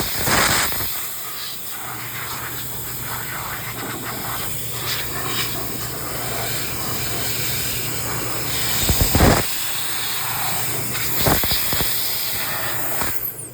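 Handheld air duster blowing a steady hiss of air to blast dirt out of a motor, with louder gusts twice; it stops just before the end.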